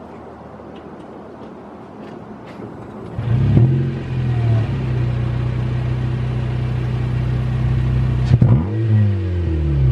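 Honda CR-Z's 1.5-litre four-cylinder engine running with its muffler removed: it starts about three seconds in, settles into a steady idle, and is blipped once near the end, the pitch rising and falling.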